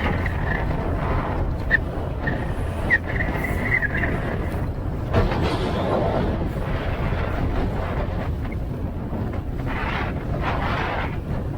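Checkmate speedboat running at speed: a steady engine rumble mixed with the rush of wind and water, swelling a little twice, about five seconds in and near the end.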